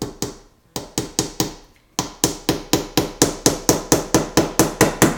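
Hammer tapping 1 1/4 inch finishing nails into a wooden beehive frame, joining the top bar to the end bars. A few strikes, a brief pause, then a steady run of quick blows at about four a second.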